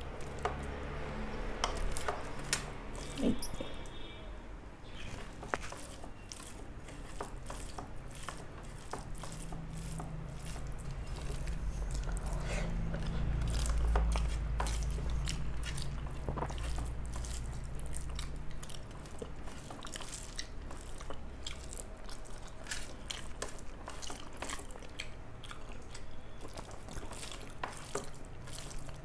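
A person eating rice and curry close to the microphone: chewing with many small wet clicks and smacks, with a low rumble around the middle.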